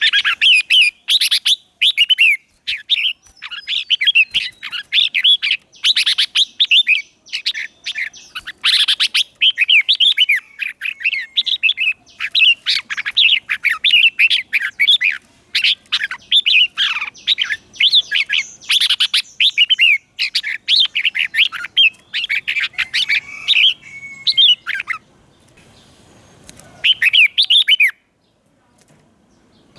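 Red-whiskered bulbul singing in quick, bright, chattering phrases, the song of a decoy bird calling wild bulbuls in. The song goes on almost without a break, then stops near the end after one last short burst.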